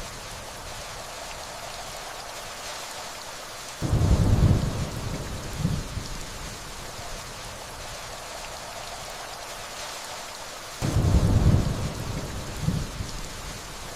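Steady rainfall hissing, with distant thunder rolling in twice, deep and low: once about four seconds in and again about three-quarters of the way through, each roll lasting a couple of seconds and trailing off in a smaller second rumble.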